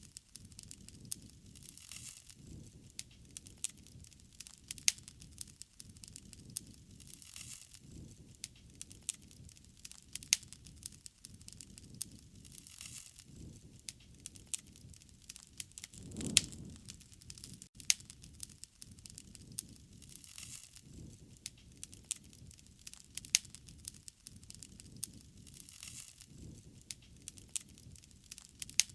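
Wood fire crackling, with frequent irregular sharp pops over a low rumble of flames that swells every few seconds, most strongly about sixteen seconds in.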